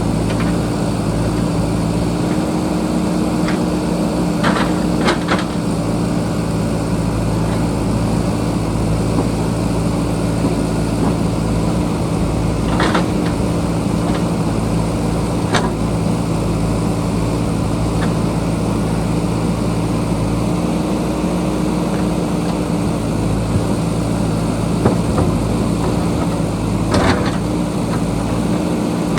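JCB backhoe loader's diesel engine running steadily at a constant pitch, with a few sharp knocks scattered through.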